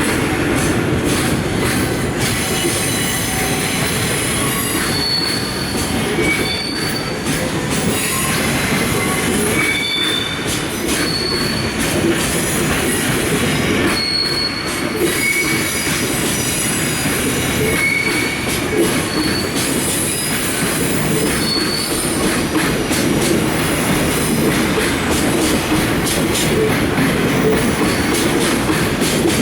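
A freight train's container flatcars rolling past, a steady rail rumble with short high-pitched wheel squeals coming and going every second or two.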